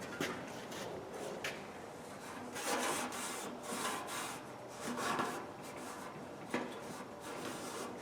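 Hand scrubbing on an old steel Craftsman toolbox: slow rubbing strokes about a second apart, with two short sharp clicks.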